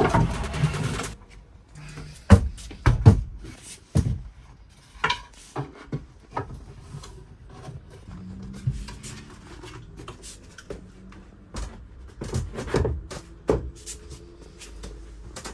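A music track ends about a second in, followed by scattered knocks, clicks and rubbing, like things being handled and set down in a small room.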